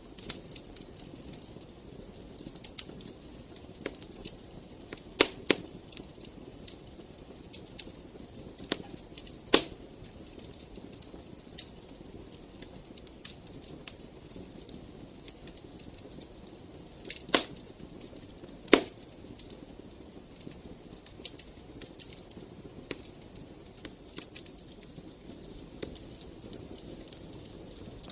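Fire in a fireplace crackling with many small pops over a low steady rumble of flames. The sharpest pops come about five seconds in, near ten seconds, and as a close pair around seventeen to nineteen seconds.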